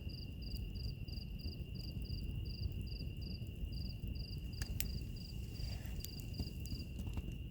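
Crickets chirping about three times a second over a steady high insect trill, the chirping stopping near the end. A crackling wood fire adds a few sharp pops in the second half over a low, steady rumble.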